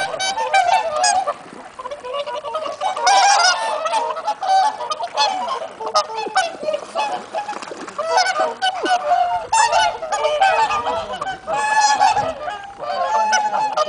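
A flock of swans calling, many overlapping calls in a continuous chorus with a brief lull about a second and a half in.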